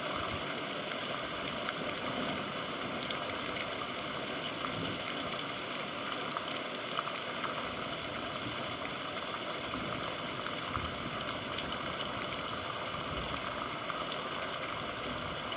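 Steady rainfall, an even hiss with scattered sharp ticks of individual drops striking a surface.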